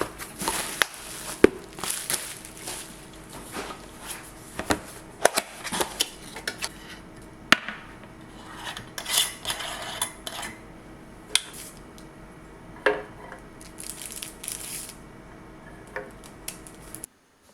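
Dishes and metal utensils clinking and clattering, with irregular sharp knocks and scrapes over a faint steady hum. Everything cuts off suddenly near the end.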